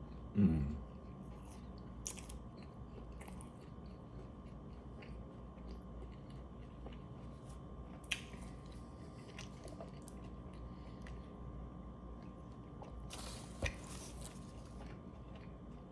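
Close-miked chewing of a mouthful of McDonald's Double Big Mac, with small wet mouth clicks. A short low hum of the voice sounds about half a second in.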